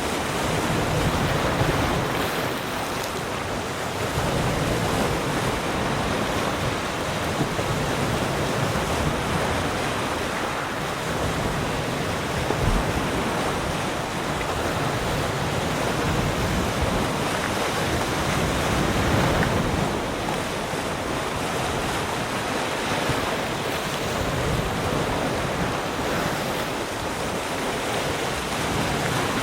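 Sea surf: waves breaking and washing onto the shore in a continuous rush that swells and eases every few seconds, with some wind on the microphone.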